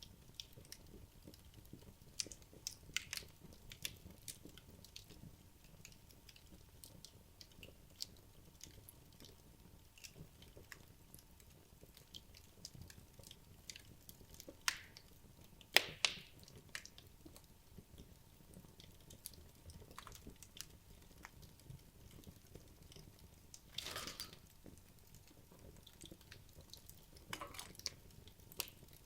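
Wood logs burning in a fireplace, crackling: scattered small pops and ticks over a faint hiss, one sharp louder pop about halfway through, and short bursts of crackling near the end.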